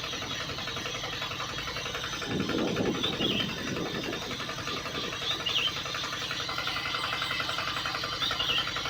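A small motor running steadily with a fine rapid ticking, with a louder low rush from about two to four seconds in and a few faint high chirps.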